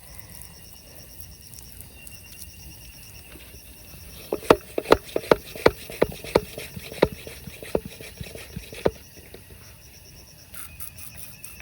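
About a dozen sharp knocks of hard objects in quick, uneven succession, starting about four seconds in and stopping about nine seconds in, over faint high-pitched insect chirping.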